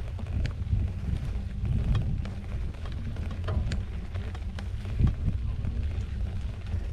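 Mountain bike rolling over a dirt trail, with wind rumbling on the microphone and scattered small clicks and rattles from the tyres and bike.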